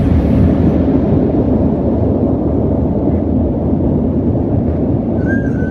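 Steady, loud rumble of drive-through car wash machinery working over the car, heard from inside the cabin. A brief high squeak comes near the end.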